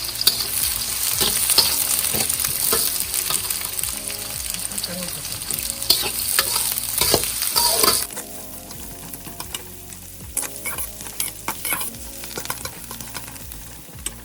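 Sliced onions frying in hot oil with whole spices, sizzling steadily while a spoon stirs and clicks against the pan. About eight seconds in the sizzle cuts off suddenly, leaving quieter scattered stirring clicks.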